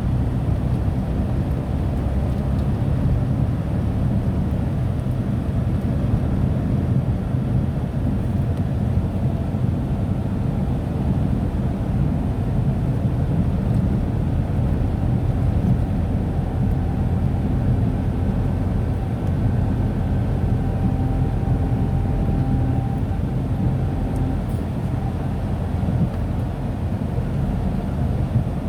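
Steady low rumble of road and engine noise inside a moving Tata Nano's cabin, with no sudden events.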